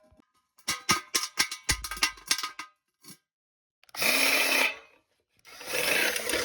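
Power drill drilling holes in a smoke-machine kit: a quick run of clicks and clinks as parts are handled, then a short burst of the drill about four seconds in, and the drill spinning up again near the end, its pitch rising.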